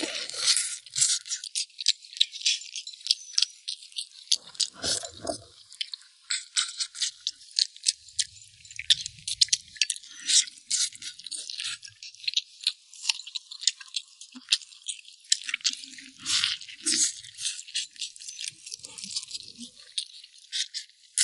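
Close-up eating sounds of lamb ribs being chewed and gnawed off the bone: a dense, irregular run of small clicks and smacks.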